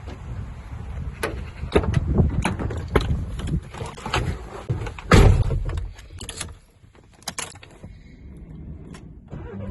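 A series of knocks and clicks over rumbling wind noise on the microphone, dying down about seven seconds in.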